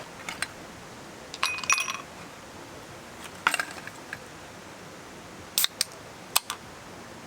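Small metal gear being handled: a scattering of sharp clicks and clinks, with a cluster of ringing clinks near two seconds in. Under it runs a steady rush of stream water.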